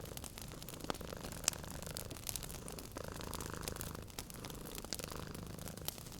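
Wood fire crackling with frequent sharp pops, the sharpest about a second and a half in, over a cat's low, steady purr.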